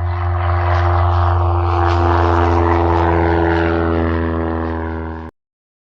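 Propeller aircraft engine droning steadily with a deep hum, then cutting off abruptly about five seconds in.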